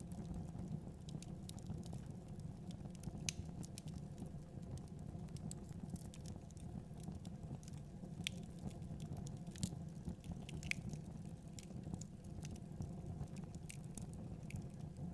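Wood fire in a fireplace crackling: irregular scattered pops and snaps over a steady low rumble.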